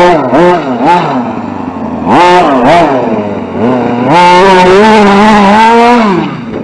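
RC short-course truck's motor revving in throttle bursts, the pitch rising and falling: a few short bursts in the first second, another around two seconds in, then a longer held run from about four seconds in that drops off near six seconds.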